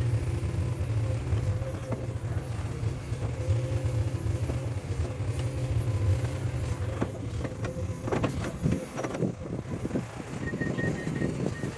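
Diesel engine of a heavy construction machine running steadily, with a few knocks and clanks about two-thirds of the way through and a string of short high beeps near the end.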